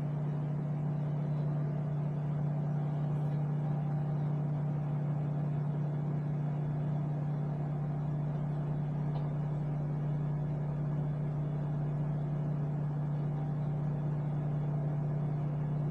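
Small countertop microwave oven running on high with a steady electrical hum and fan noise, heating a cup of water that has come to the boil.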